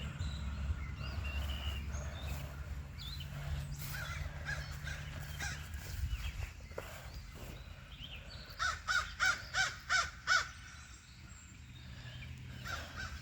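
A bird calling: a quick run of six calls about nine seconds in, with fainter short chirps earlier, over a low steady hum.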